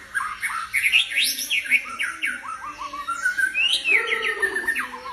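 White-rumped shama singing a fast, varied run of short sweeping whistled notes.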